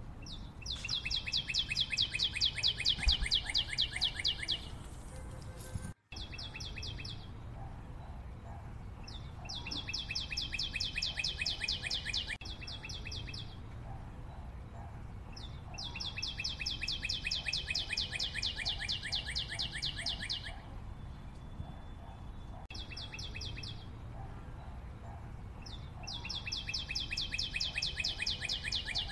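A bird's rapid trill: phrases of quick, evenly spaced high notes a few seconds long, repeated again and again with short pauses between them.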